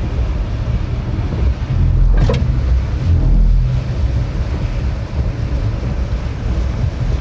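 Typhoon-force wind buffeting the microphone: a loud, continuous low rumble with gusts swelling about two seconds in and again around three and a half seconds. A single brief sharp knock about two seconds in.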